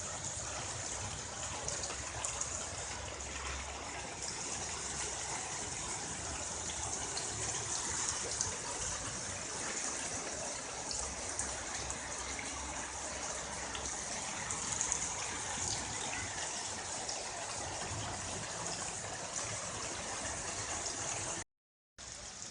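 Heavy rain falling steadily, a dense even hiss of water. The sound cuts out for about half a second near the end.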